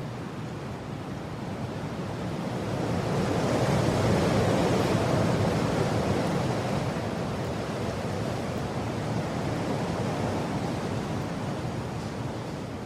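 Strong wind blowing in a steady rush, swelling into a louder gust a few seconds in and then easing back.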